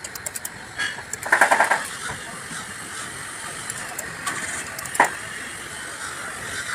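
Metal tools and engine parts being handled in a workshop: scattered light clicks, a short rapid rattle about a second in, and one sharp metallic knock about five seconds in.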